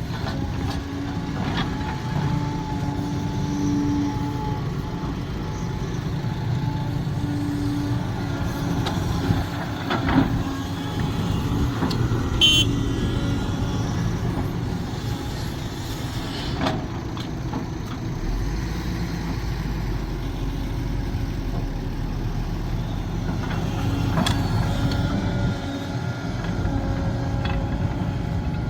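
Sumitomo SH370LHD-6 hydraulic excavator's diesel engine running steadily while the machine works, with a few short knocks and a deeper low drone joining about two-thirds of the way through.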